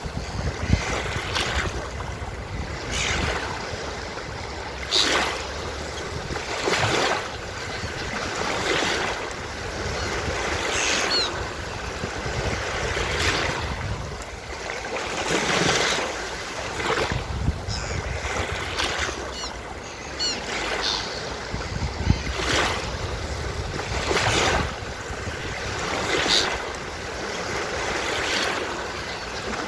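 Ocean surf breaking and washing up on a beach, a new wash rising and falling every couple of seconds, with a few short, faint seagull calls over it.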